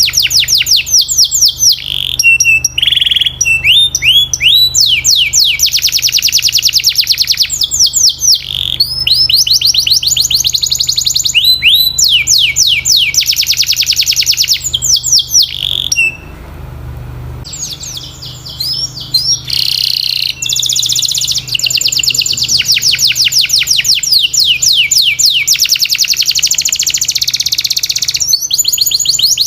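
Domestic canary singing: long fast rolls of repeated falling whistled notes, each run at its own speed and pitch, with a short pause a little past halfway. A faint steady low hum lies underneath.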